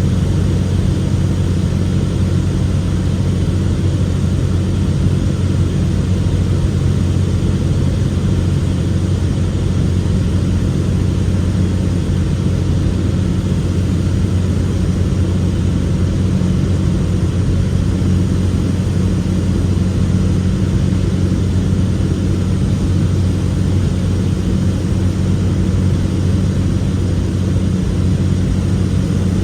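Cessna 206 Stationair's piston engine and propeller droning loudly and steadily, a low hum with no rise or fall in power.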